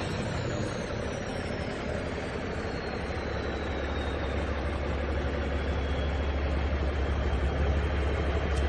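Heavy diesel truck engine running steadily at low revs, with a faint high whine that falls slowly in pitch over several seconds.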